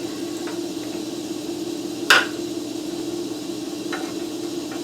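A single sharp metallic strike about two seconds in, with a few faint taps, over a steady hum: metal being struck while a steel car frame is worked on.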